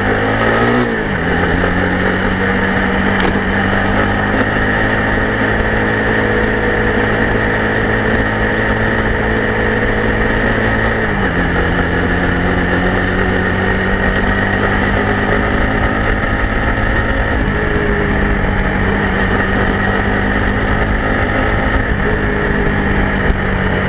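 TVS Apache RTR 160 4V's single-cylinder engine and exhaust running steadily at an even pitch, which dips slightly about eleven seconds in.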